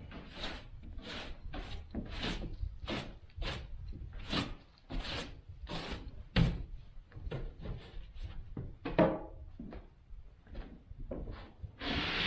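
Wood being worked by hand in quick back-and-forth strokes, about two a second, with a few sharper knocks among them.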